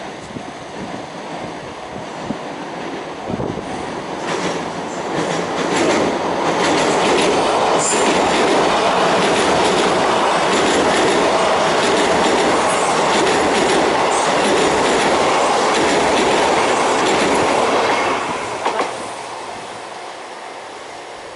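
Kintetsu Minami-Osaka Line electric train running across the Yamato River railway bridge. Its wheel and rail noise builds as it approaches, stays loud for about twelve seconds while the carriages pass close by, then fades as it moves away.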